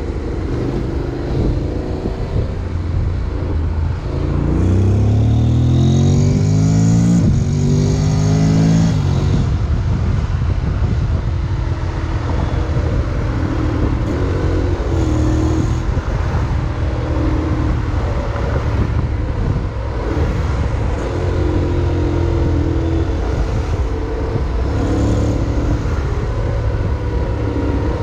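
Honda X-ADV 750's parallel-twin engine running under way, with wind and road noise. The engine rises in pitch as it accelerates between about four and eight seconds in, then runs on steadily.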